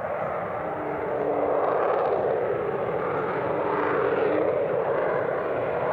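Jet noise from the F-35A Lightning II's Pratt & Whitney F135 afterburning turbofan in flight. It is a dense rushing noise that grows louder over the first two seconds and then holds steady and loud.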